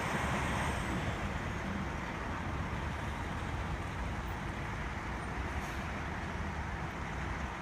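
Steady roadside traffic noise: a low engine rumble and even road hiss, with no single event standing out.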